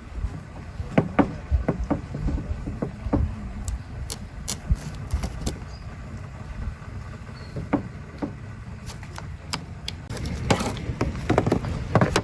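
Scattered knocks and clicks over a steady low rumble, the knocks coming closer together near the end.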